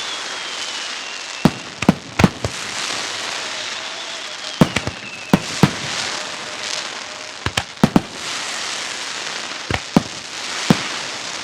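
Aerial firework shells bursting: about a dozen sharp bangs, some in quick pairs, over a continuous dense crackle from crackling stars. A whistle falls slowly in pitch during the first half.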